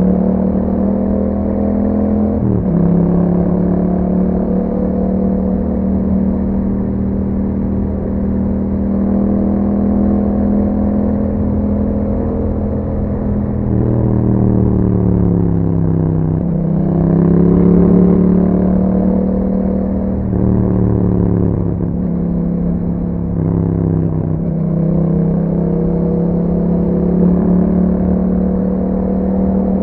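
Yamaha MT-07's parallel-twin engine running through an Akrapovic exhaust, held at a steady pitch while riding. A few brief dips in pitch look like gear changes or throttle lifts. About halfway through the engine note falls away and then climbs back up as the bike slows and accelerates again.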